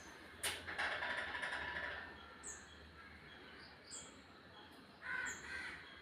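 Crows cawing while feeding: a long harsh caw about a second in and a shorter one near the end, with a sharp click just before the first and short high chirps in between.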